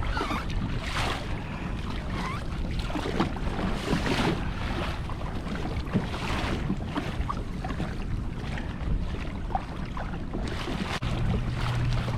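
Wind buffeting the microphone and choppy ocean water sloshing against a kayak hull, surging every second or two.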